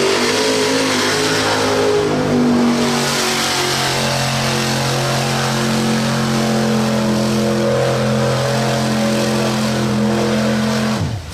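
Off-road vehicle's engine revving hard, its pitch climbing over the first few seconds and then held at high revs, before dropping off sharply near the end.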